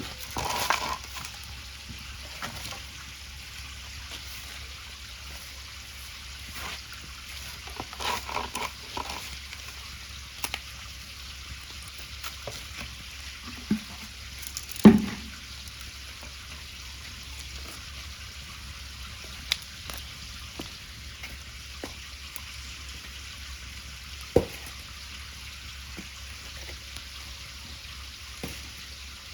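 Steady hissing and crackling of cooking over a bonfire, with scattered small pops and a few louder knocks.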